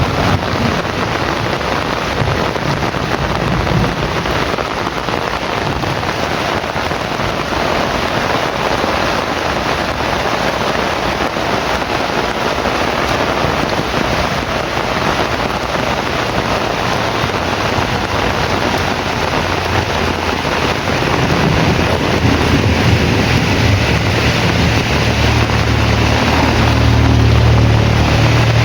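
Heavy rain falling steadily. About two-thirds of the way through, a deep low rumble builds and is loudest near the end.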